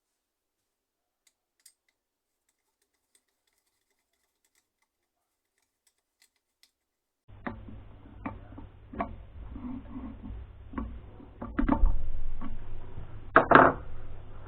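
Near silence for about seven seconds, then irregular clicks and knocks of metal engine parts and tools being handled over a low steady hum. The loudest knocks come around twelve and thirteen and a half seconds in.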